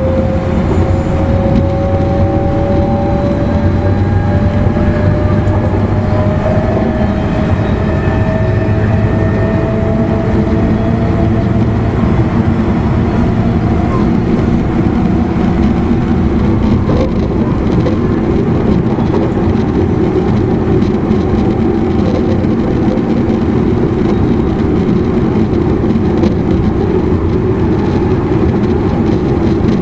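Traction motors of an E259 series electric train's motor car whining, the pitch rising steadily over the first ten seconds or so as the train accelerates, then settling into a steady running rumble of wheels on rail.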